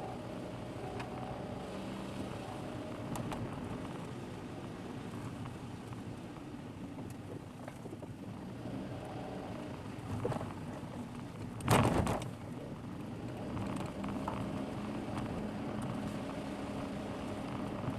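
Steady engine and road noise of a car driving, picked up by a dashcam microphone. A brief loud rush of noise breaks in about two-thirds of the way through.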